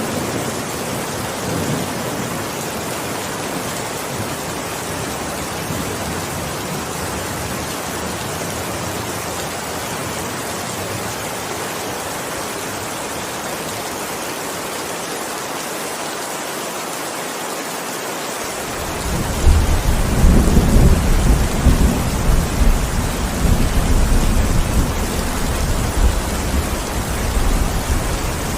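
Steady heavy rain hissing. About two-thirds of the way through, a long, deep rumble of thunder comes in and keeps rolling under the rain.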